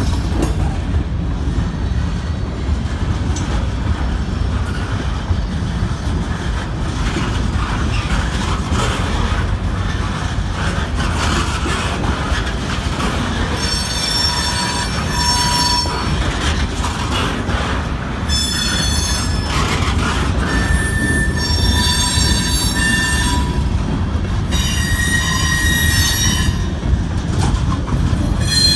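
Freight train cars rolling past close by at a grade crossing, a steady low rumble of wheels on rail. From about halfway through, the wheels squeal on and off in high, sustained tones.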